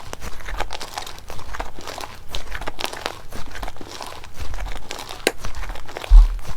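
Slime being worked by hand, giving a run of many small crackles and pops, with a sharper click about five seconds in and a soft thump near the end.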